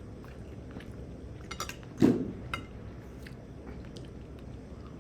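Close-miked eating sounds: small mouth and utensil clicks, with one loud dull knock about two seconds in, like a plate or utensil set down.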